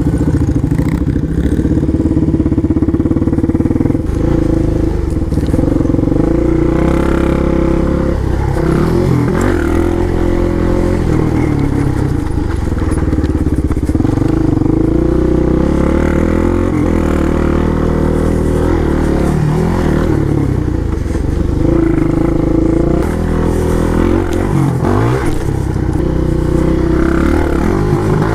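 Small four-stroke single-cylinder pit bike engine revving hard and easing off over and over as the bike is ridden around a dirt track, its pitch climbing and dropping every few seconds.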